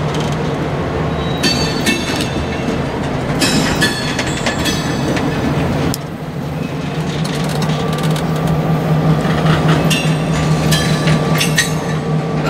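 A diesel locomotive's engine running steadily as it slowly shoves empty open hopper cars, with the wheels clicking over the rail and flanges giving several short, high-pitched squeals.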